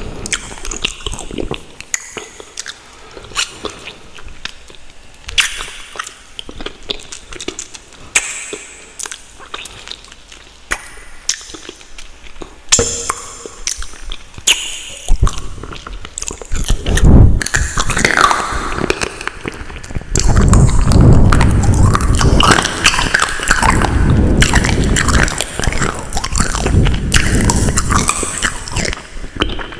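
Close-miked chewing and wet mouth sounds of someone eating spicy instant ramen noodles. Quieter scattered clicks and smacks for the first half, then louder, denser chewing from about halfway.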